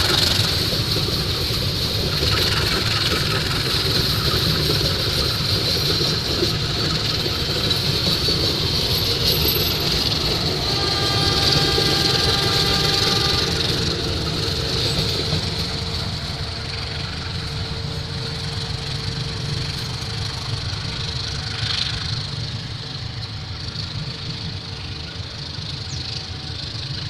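Train passing on the rails, a steady rumble of the rolling carriages that slowly fades over the second half.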